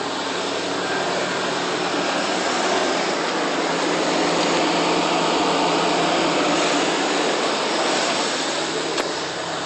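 2004 Toyota Tacoma's engine running steadily just after starting, a hum with a lot of airy noise over it. It swells a little midway and eases off near the end, with one short click shortly before the end.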